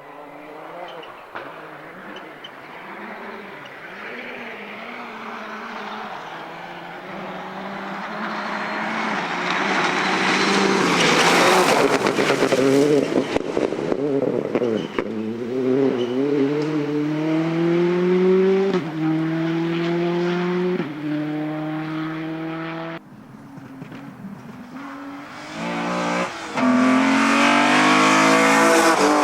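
Rally car approaching at speed and passing, then accelerating away through several gears, the engine pitch climbing and dropping at each upshift. It cuts off suddenly, and near the end a second rally car comes in loud, revving hard.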